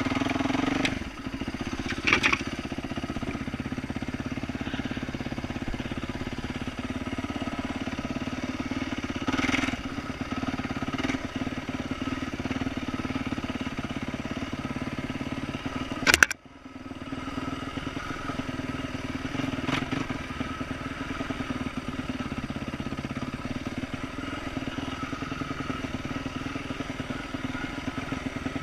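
2012 Yamaha YZ450F single-cylinder four-stroke dirt bike engine running at a steady trail pace through an aftermarket exhaust, with a few sharp knocks. The loudest knock comes about sixteen seconds in, followed by a brief dip in the engine sound.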